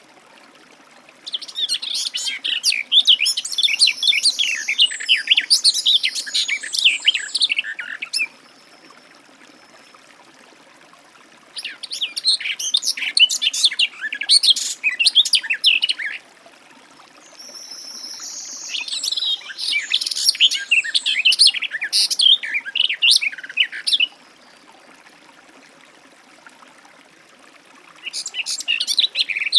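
Garden warbler singing: long bouts of fast, rambling warbling, each lasting several seconds, with pauses of a few seconds between them. There are four bouts, the last starting near the end.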